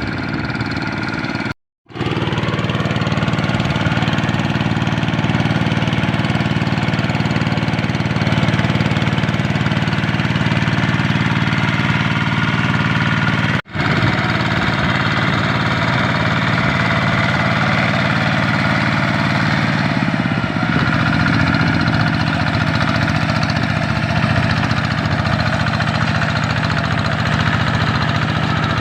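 The single-cylinder diesel engine of a Kubota RD85 DI-2S hand tractor runs steadily. The sound cuts out briefly twice, just before 2 seconds in and about 14 seconds in.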